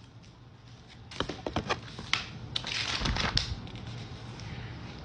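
A household item being handled to make a crackling, crunching noise. A quick run of sharp clicks starts about a second in, then a denser crunching burst comes near the middle before it settles to a faint crackle.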